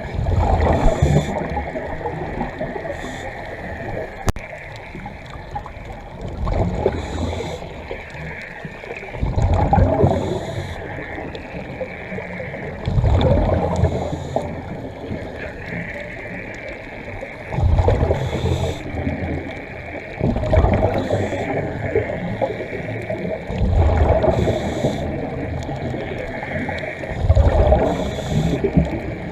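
Scuba diver breathing through a regulator underwater: a bubbling gurgle of exhaled air every three to four seconds, about eight breaths in all, with a short hiss of each inhale between them.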